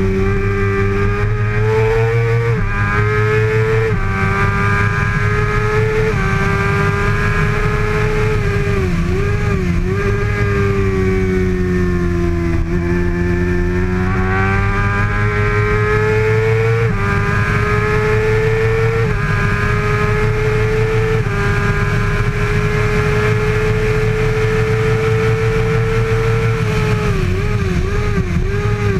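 2013 Kawasaki ZX-6R's 636 cc inline-four engine running hard at high revs. The pitch climbs and then drops sharply at each quick upshift, sags and wobbles when the engine comes off the throttle for a corner, then climbs again.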